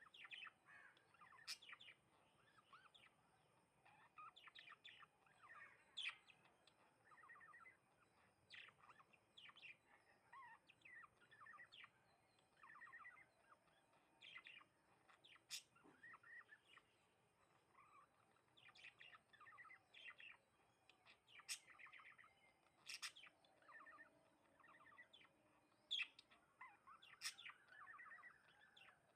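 House sparrows chirping: short chirps in scattered clusters throughout, with a few sharp clicks among them.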